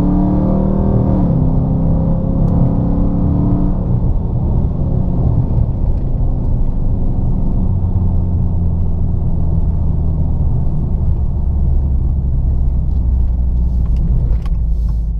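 Dodge Charger R/T's 5.7 Hemi V8 running through a Solo Performance MR212-HJ stainless exhaust with H-pipe and J-pipes: its note drops in pitch in the first couple of seconds, then settles into a steady deep rumble.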